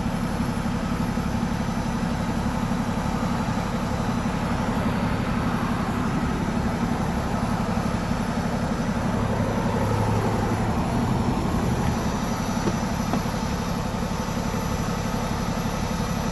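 Motor vehicle engine idling steadily, a low pulsing rumble, swelling a little louder between about nine and twelve seconds in.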